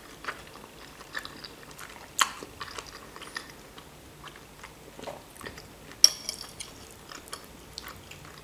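A person chewing a mouthful close to the microphone, with many small wet mouth clicks. A fork clinks sharply on a plate about six seconds in, with a lighter sharp click about two seconds in.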